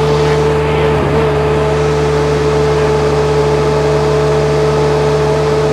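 Stand-on mini skid steer's small diesel engine running steadily at working throttle, with a steady whine over the engine note and a brief dip about a second in.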